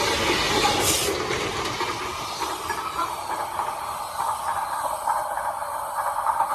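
Freight train passing, its wheels and wagons making steady noise on the rails, with a brief hiss about a second in.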